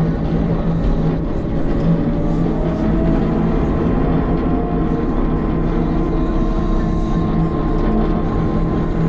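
CAT 906 compact wheel loader's diesel engine running steadily while plowing, with a faint higher whine that rises in pitch about three seconds in.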